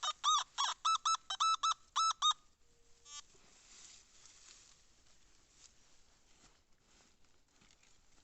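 A bird calling a quick series of about ten loud, high, ringing notes, each rising and falling in pitch, that stops a little over two seconds in. Faint rustling follows.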